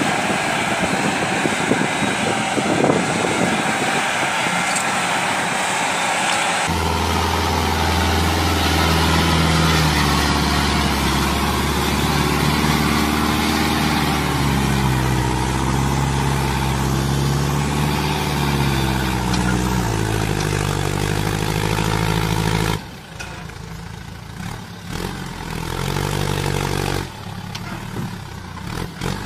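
Tractor engines running across several cut-together clips. A rough, noisy engine sound gives way about seven seconds in to an engine revving, its pitch rising and falling as the throttle works. Near the end a quieter engine runs at a steadier pitch.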